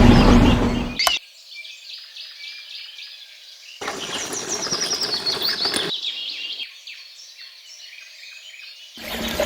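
A small motor runs with a steady hum and cuts off abruptly about a second in. Birds then chirp, with a stretch of rushing noise in the middle.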